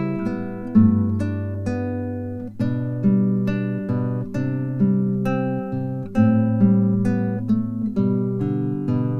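Acoustic guitar music: notes and chords picked over a bass line, a new note about every half second, each ringing and fading.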